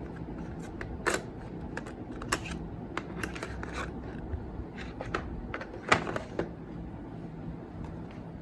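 Makeup items being set into a makeup organizer: a series of irregular sharp clicks and knocks of small hard objects, the loudest about six seconds in.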